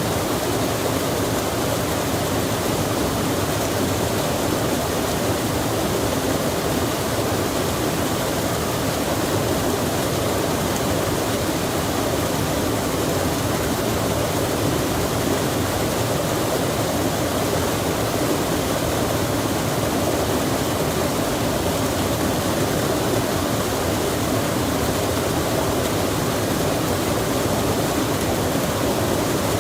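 A stream running steadily with rain falling on it, an even, unbroken rush of water noise.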